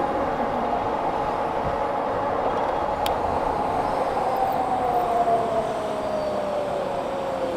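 Electric motor of a 60-volt Wired Freedom e-bike whining at speed over a steady rush of road and wind noise. Over the last few seconds the whine falls steadily in pitch as the bike slows.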